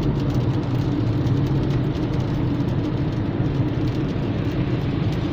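Steady engine and tyre noise heard from inside a car's cabin while driving along a highway.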